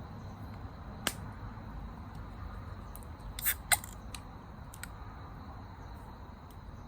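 A few short, sharp clicks over a low steady rumble.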